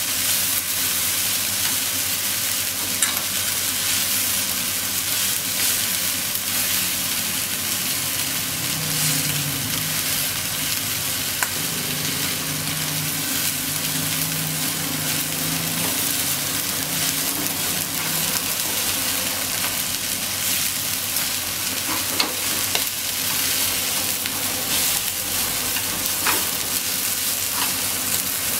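Fried rice with corn sizzling in a frying pan on a gas burner as it is stirred and broken up with wooden chopsticks, with a few light clicks of the chopsticks against the pan.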